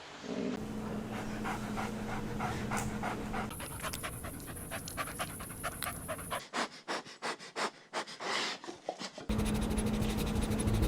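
Puppies panting in quick, rhythmic breaths, a few per second, across several short clips with the background hum changing abruptly between them.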